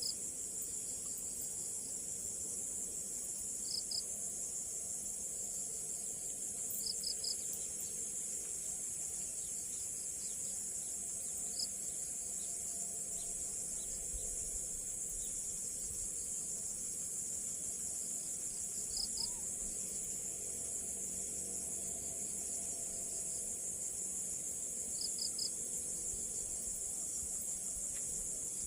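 Steady high-pitched chorus of insects such as crickets, with short chirps in groups of two or three every few seconds.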